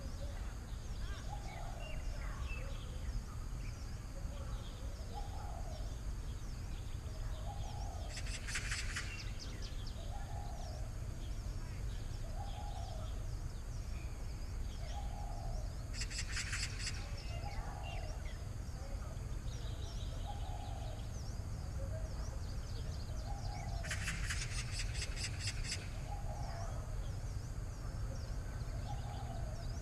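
Outdoor birdsong: a low call repeated about once a second, and about every eight seconds a short burst of rapid clicking trill, over a steady low rumble.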